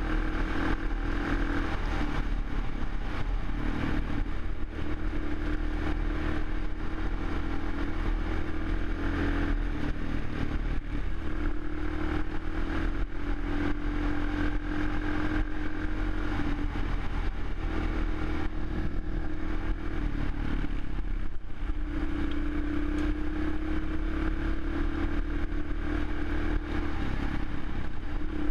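Suzuki LTZ400 quad's single-cylinder four-stroke engine running, its pitch rising and falling slightly, with a brief drop about 21 seconds in.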